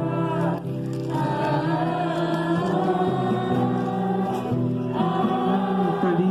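Christian worship music: several voices singing together in long held notes.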